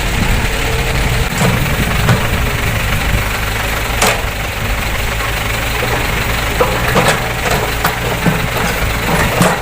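Heavy diesel engine idling steadily, with a few sharp knocks about four seconds in and again near the seven- and eight-second marks.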